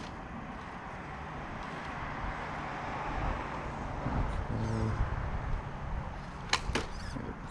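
Axial SCX10 III RC rock crawler's electric motor and gear drivetrain whirring as it drives over the course, louder in the middle. Two sharp clicks come near the end.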